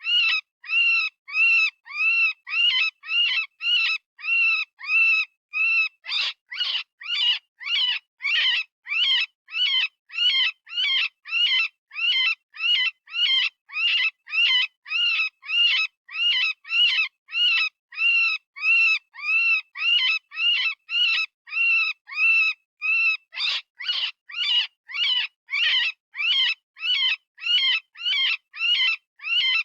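Synthesized rabbit distress call, a predator-call style imitation of a frightened or hurt rabbit screaming. High, pitched cries repeat about twice a second with short silences between. They turn harsher and rougher for a few seconds about six seconds in and again near the end.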